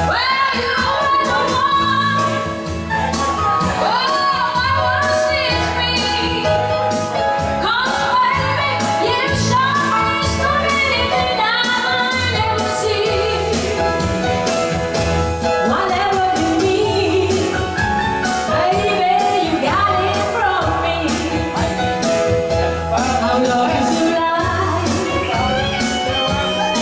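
A woman singing a pop song with vibrato over instrumental accompaniment with a steady beat and bass line.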